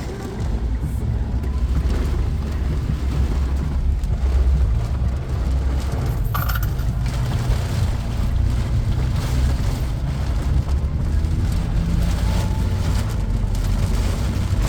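Heavy rain falling on a moving car, heard from inside the cabin over a steady low road rumble of tyres on the wet road.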